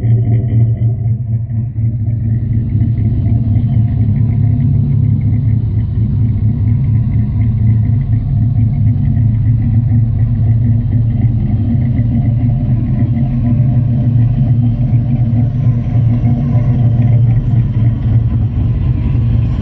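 Dodge Ram's 5.2 L 318 Magnum V8 idling steadily through a Flowmaster 40 exhaust, a deep, even exhaust note.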